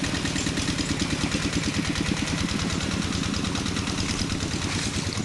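An engine idling steadily, its firing heard as a fast, even beat.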